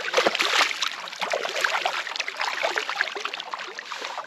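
Water splashing and sloshing as a golden perch is released back into the dam, a sudden burst of splashes that eases off over the next few seconds.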